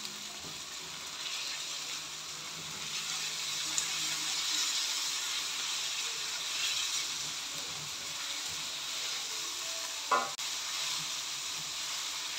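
Onions with garlic and ginger paste sizzling in hot oil in an aluminium pan, stirred with a silicone spatula: a steady frying hiss, with one short, louder sound about ten seconds in.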